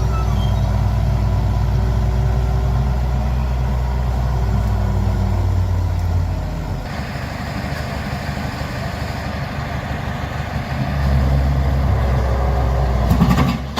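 Heavy diesel machine engine running steadily with a deep hum. Partway through the sound changes abruptly and the low hum drops out, then a similar heavy engine hum comes back near the end, with a few knocks right at the close.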